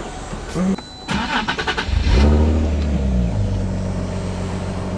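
Nissan 370Z Nismo's twin-turbocharged 3.7-litre V6 cold-started: the starter cranks briefly, the engine catches about two seconds in with a flare of revs, then settles to a steady, super quiet idle.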